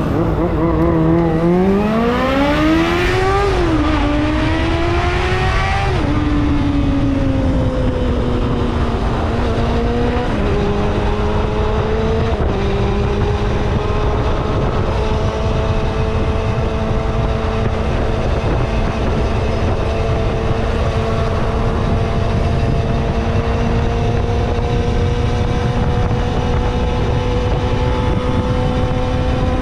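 Kawasaki ZXR250 inline-four engine revving up hard through two quick gear changes in the first six seconds, then easing off, shifting twice more, and cruising with revs slowly rising. A steady low rush of wind and road noise runs underneath.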